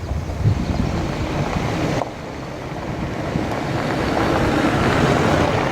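Wind buffeting the microphone in low gusty rumbles, with the rush of road traffic building after about two seconds.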